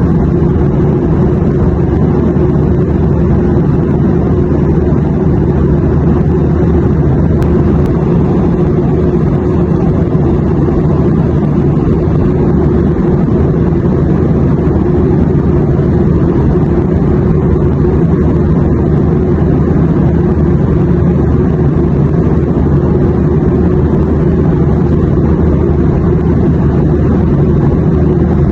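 Airplane noise used as white noise: a loud, steady, unchanging low drone, with most of its weight in the low range.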